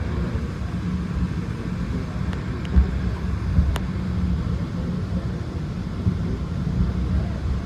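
Cog railway train running as it climbs the mountain, heard from inside the car: a steady low rumble with a few faint clicks.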